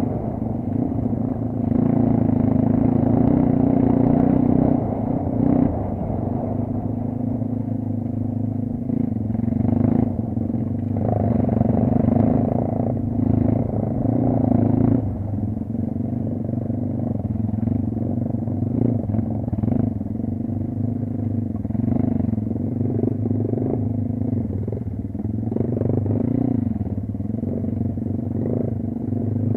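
Dirt bike engine running while being ridden, its pitch repeatedly rising and falling as the throttle is opened and closed.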